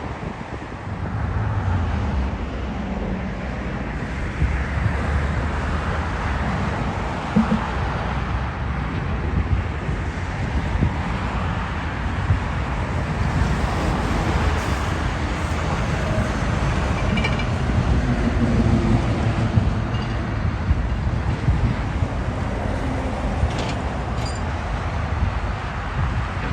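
Jet airliner engines running, a steady low rumble and roar that swells about a second in and holds.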